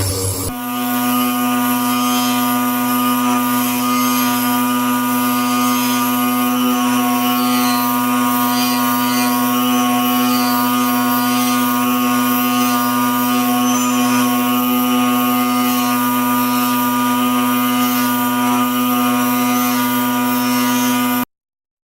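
Electric motor running at one steady speed with a strong even hum. It cuts off suddenly near the end.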